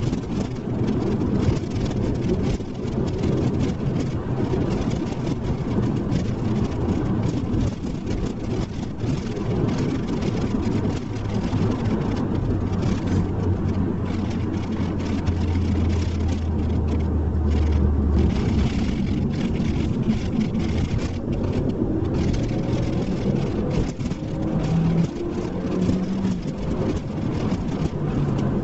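2012 SEAT Leon Cupra R's turbocharged 2.0 TSI four-cylinder running while the car is driven, with steady road noise under it. A deep drone builds for several seconds and cuts off abruptly about eighteen seconds in.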